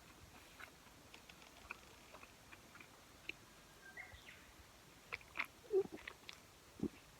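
Close-miked chewing of grilled chicken yakitori: scattered soft mouth clicks and wet smacks, louder and more frequent in the second half.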